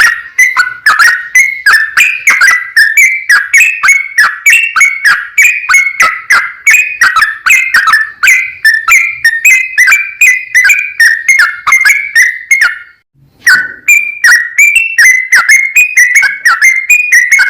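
Yellow-vented bulbul singing a long, rapid run of bubbling, whistled notes without pause, apart from a brief break about 13 seconds in. This is the continuous 'gacor' song used as a lure to make other bulbuls answer.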